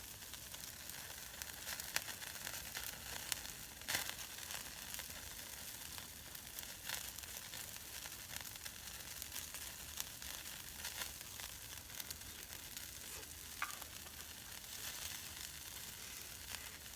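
Food sizzling in a pan over heat, a steady hiss broken by scattered sharp pops, the strongest about four seconds in.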